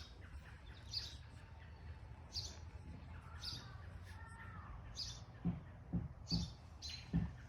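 Backyard songbirds chirping: short high chirps repeating about once a second, with a softer warbling song in the middle. From about two-thirds of the way in, a series of low thuds comes roughly twice a second.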